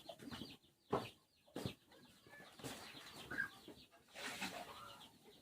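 Chickens clucking faintly in short calls, with a couple of sharp clicks about a second in.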